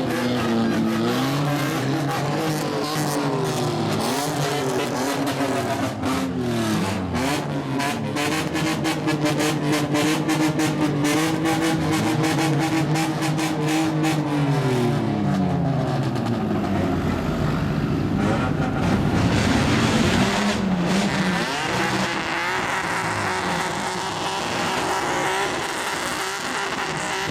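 Straight-piped exhausts of modified cars revving over and over, the engine pitch climbing and dropping again and again, with a rapid pulsing spell in the middle.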